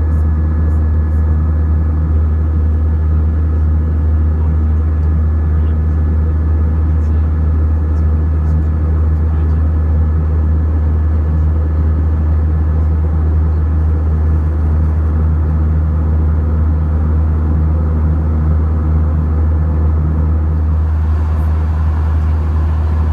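Steady drone of a jet airliner's cabin in flight: engine and airflow noise, strongest in a deep low rumble with a faint steady hum above it, unchanging throughout.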